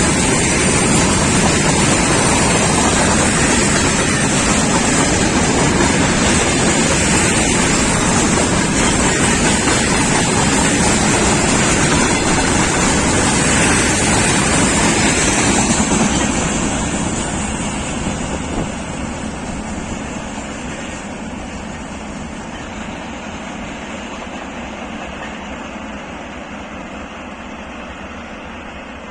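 Freight train rolling past on the track: a loud, steady rolling noise of wheels on rails that fades away gradually from a little over halfway through as the train moves off.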